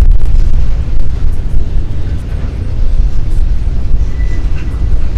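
Steady low rumble of a BNSF freight train's boxcars rolling past, mixed with wind buffeting the microphone. A short faint high squeal comes about four seconds in.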